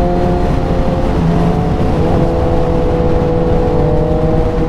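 Motorcycle engine running at a steady cruise with its pitch sinking slightly. There are small hiccups about a second and two seconds in, and wind rush on the microphone underneath.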